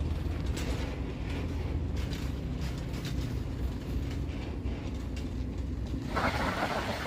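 An engine running steadily with creaking and clicking over it. About six seconds in, a large flock of ducks breaks out quacking all at once.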